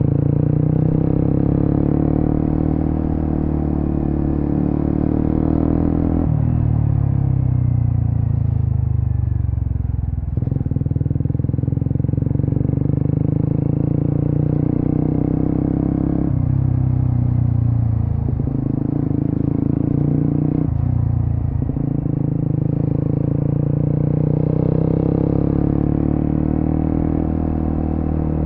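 Suzuki GSX-S150's single-cylinder engine running through a Quinze Big Volume aftermarket exhaust while riding. The engine note jumps up and down abruptly several times as the revs change, with a long falling stretch about a quarter of the way in.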